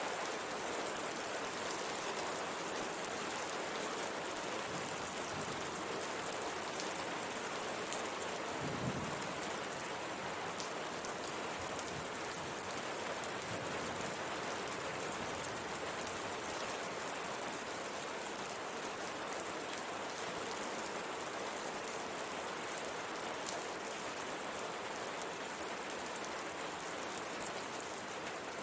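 Steady rain falling on a window, a continuous hiss of drops with fine pattering on the glass. A brief low thump about nine seconds in.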